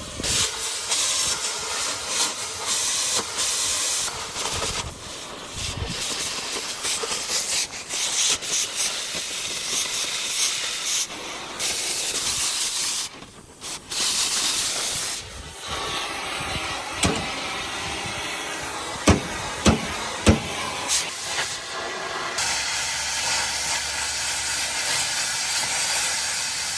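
Gas cutting torch running with a loud, uneven hiss, fed from a gas bottle, with three sharp pops about two-thirds of the way in.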